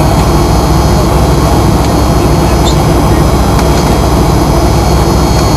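Fokker 100's rear-mounted Rolls-Royce Tay turbofan engines running, heard from inside the passenger cabin as a loud, steady rumble with a thin high whine over it.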